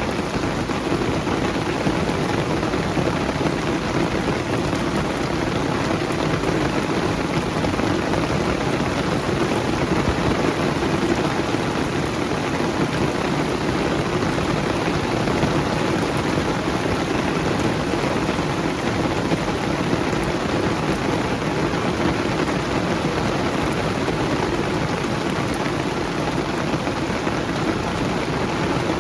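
Steady rain falling on banana leaves, a dense, even, unbroken wash of drops.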